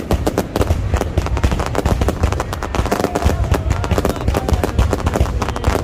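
Fireworks display going off: a rapid, unbroken barrage of bangs and crackles.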